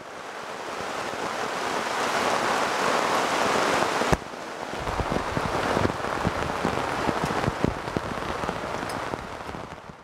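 Heavy rain falling in a dense, steady hiss. About four seconds in it cuts sharply to rain with many heavy drops thudding close by.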